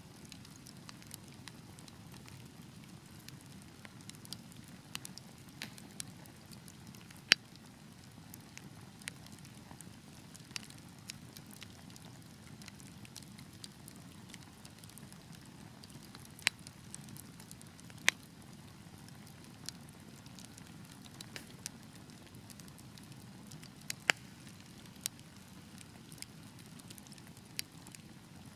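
Wood fire in a fireplace burning with a steady low rush of flame, broken by scattered sharp crackles and pops. The loudest pop comes about seven seconds in, with others around sixteen, eighteen and twenty-four seconds.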